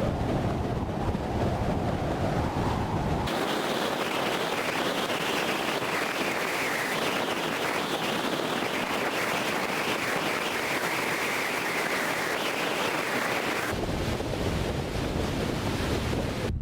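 A steady rushing noise with no clear beat or tone. About three seconds in it abruptly turns hissier and thinner, and near the end it abruptly goes back to a deeper rush.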